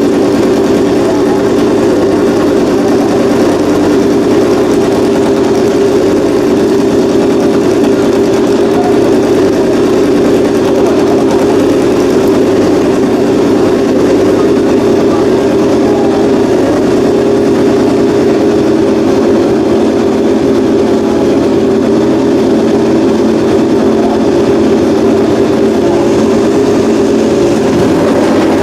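Honda RC213V MotoGP racing motorcycle's V4 engine running loudly through its exhaust at a steady, unchanging engine speed.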